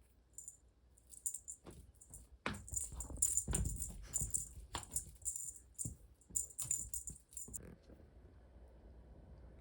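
Light metallic jingling and rattling in quick, irregular shakes, mixed with a few sharp knocks, stopping about seven and a half seconds in.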